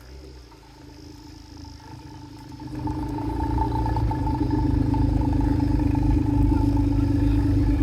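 A car engine running at steady revs, with a low, pulsing exhaust note. It grows much louder about three seconds in as the car comes close, then holds steady.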